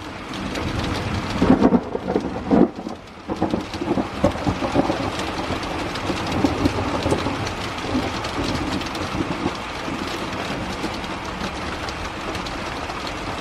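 Thunder after a lightning flash: two loud cracks in the first three seconds, then a long rolling rumble that slowly fades, over steady rain.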